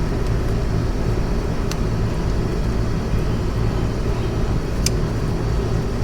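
Steady low rumble in the background, with two sharp clicks about three seconds apart from parts or tools being handled during the motorcycle teardown.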